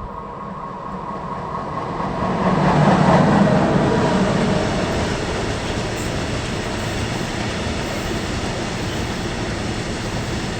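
Train running past on the rails, growing louder over the first three seconds to its loudest, then carrying on as a steady rolling noise of wheels on track.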